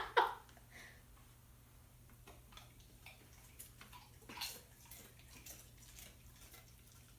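Faint, scattered wet clicks of chewing and lip-smacking while eating, the loudest a little past the middle, over a low steady room hum.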